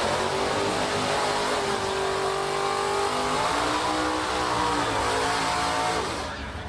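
Drag race car's engine running hard, its pitch climbing and dropping as it revs, then fading away about six seconds in.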